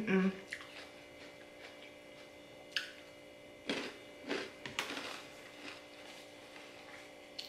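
Quiet eating sounds: a few brief mouth smacks and clicks while chewing a mouthful of pasta, bunched a little before the middle, after a short voiced sound right at the start.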